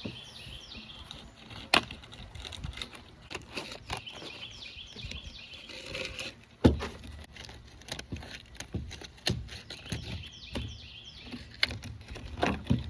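Irregular clicks, taps and rustling of hands cutting and handling stiff filter material. A bird sings runs of short, high, descending notes in the background.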